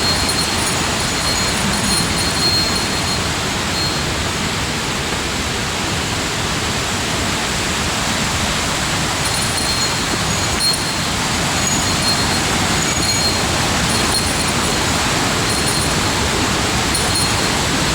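Steady rushing of water in a mountain gorge, a waterfall or fast stream, with faint high chirps now and then.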